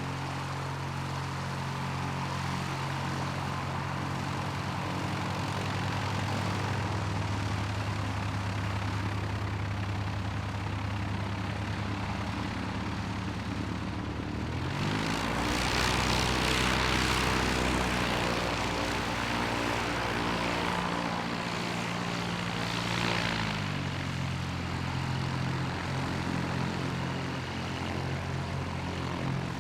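Light propeller aircraft's piston engine running steadily. About halfway through the engine note shifts and gets louder for a few seconds, then settles back to a steady run.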